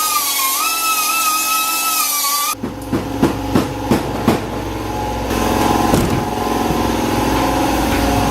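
A power tool running with a high, slightly wavering whine that stops about two and a half seconds in, then several sharp knocks over a low mechanical rumble.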